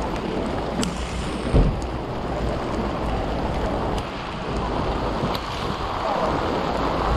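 Steady rain with wind buffeting the microphone, and a single low thump about a second and a half in.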